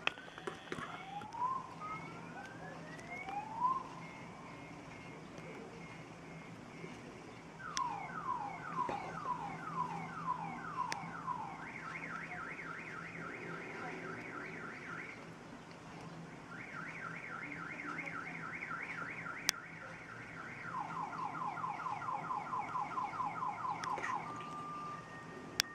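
Electronic car alarm siren cycling through its tone patterns: rising whoops first, then a run of quick falling chirps about twice a second, then fast warbling trills at a higher and then a lower pitch.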